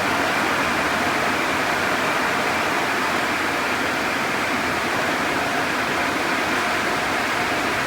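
Automatic car wash tunnel equipment running with an even rushing noise and a faint steady hum.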